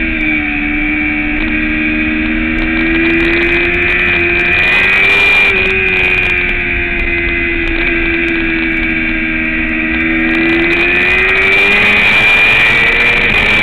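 Motorcycle engine running hard at track speed. The engine note sags and climbs slowly as the revs change through the corners, rising steadily over the last few seconds.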